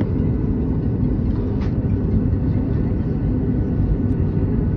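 Cabin noise inside a Boeing 737 MAX 8 with its CFM LEAP-1B engines running: a steady, loud low rumble with a faint whine above it.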